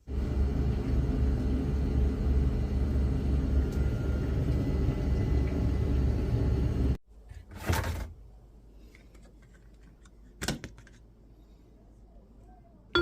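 A steady low rumble of a running machine, which cuts off suddenly about seven seconds in. A brief whoosh follows, then a single sharp click.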